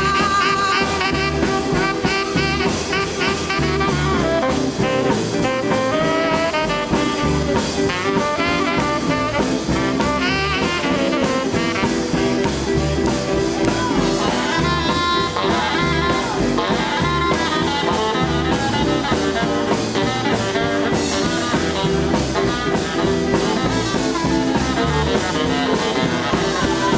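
Live jump-blues band playing an instrumental break with no vocals: horn lead lines over guitar, bass and a steady drum-kit beat.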